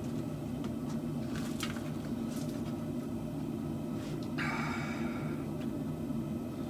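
A steady low mechanical hum runs throughout. About four and a half seconds in comes a brief hiss lasting about a second, with a few faint clicks scattered around it.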